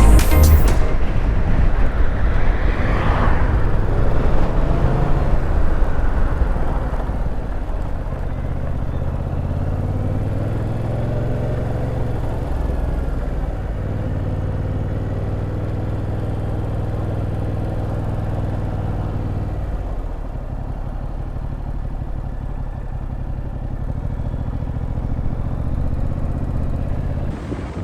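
Yamaha FZ-07 motorcycle's parallel-twin engine running at a steady riding pace, with its pitch stepping down and up a couple of times as the speed and gear change.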